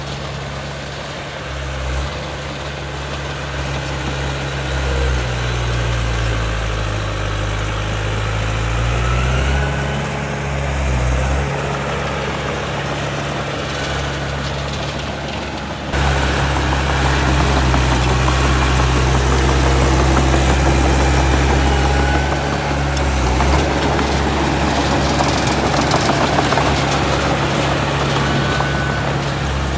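Heavy diesel engine of earthmoving machinery running, its pitch sagging and then rising again about a third of the way in. About halfway through the sound jumps suddenly louder and stays steady.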